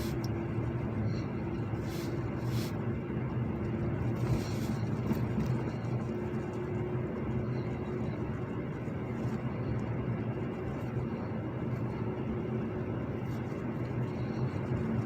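Car engine running with a steady hum and a few faint clicks.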